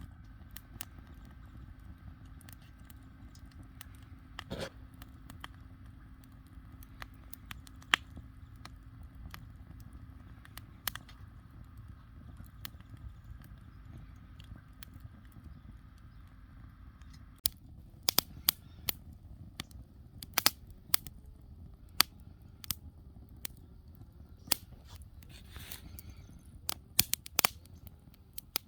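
Wood fire crackling, with sharp pops and snaps scattered through it that come much more often in the last third. A faint steady hum runs underneath and stops about two-thirds of the way through.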